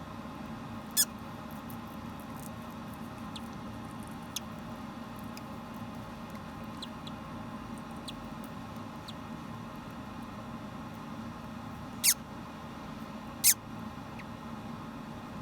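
Hatching Moluccan cockatoo chick giving short, high squeaks that fall in pitch: one about a second in and two close together near the end, over a steady low hum.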